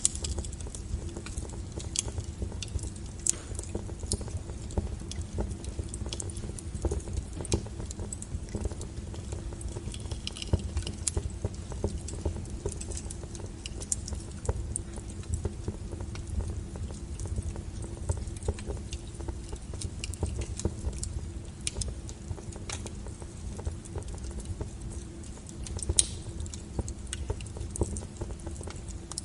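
Wood fire burning, with irregular sharp crackles and pops over a steady low rumble of the flames; a few louder pops stand out, one about 26 seconds in.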